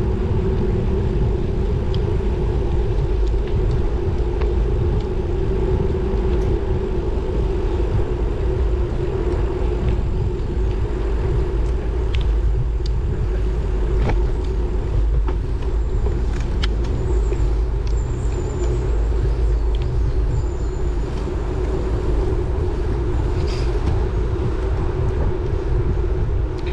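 Steady wind and road rumble on the microphone of a moving road bike, with a few faint ticks over it.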